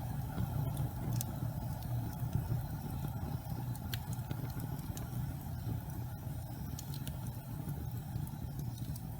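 Gas fireplace flames burning with a steady low rumble, broken by a few faint, sharp crackles.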